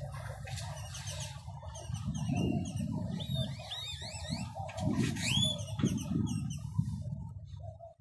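Small birds chirping in quick series of sweeping, rising and falling notes, busiest about two to six seconds in and dying away near the end, over a steady low rumble.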